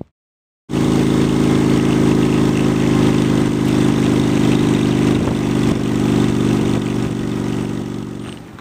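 Honda Shadow 750 V-twin motorcycle engine running at a steady speed with an even, unchanging note, cutting in under a second in and fading slightly near the end.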